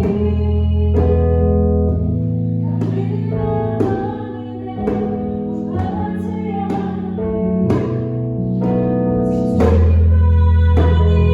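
Worship song played on piano, with chords struck about once a second and a singer's voice over them.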